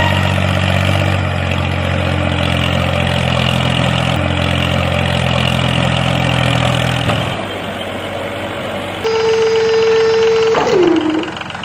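Mini tractor engine running steadily, then dropping away about seven seconds in. About nine seconds in, a steady horn-like tone sounds for under two seconds and ends with a sharp fall in pitch.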